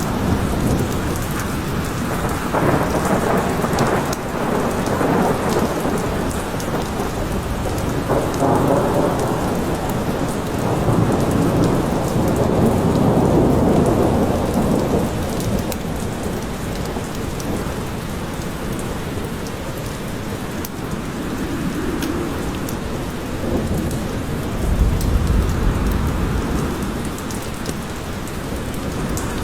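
Steady forest rain falling, with low rumbles that swell and fade several times, the deepest about 25 seconds in.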